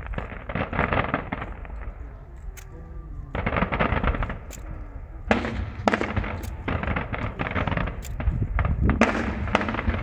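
Aerial fireworks going off: waves of dense, rapid crackling, each lasting a second or two, with sharp single bangs between them and a low rumble underneath.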